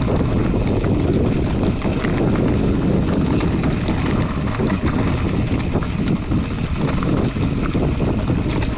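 Steady wind rush on the GoPro microphone and tyre noise from a Specialized Chisel hardtail mountain bike riding a dirt trail, with small scattered clicks and knocks.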